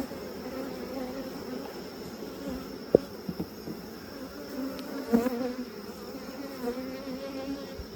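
Swarm of honey bees buzzing steadily around an opened hive, a wavering hum from a colony worked up by the inspection. A sharp click about three seconds in, and a softer knock around five seconds.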